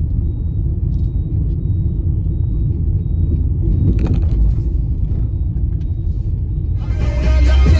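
Car driving on a highway: a steady low rumble of road and engine noise, with a brief hiss about halfway through. Music comes in near the end.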